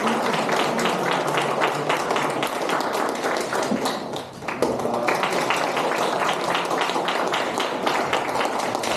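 Audience applauding, a dense patter of many people clapping, with a brief lull about four seconds in before the clapping picks up again.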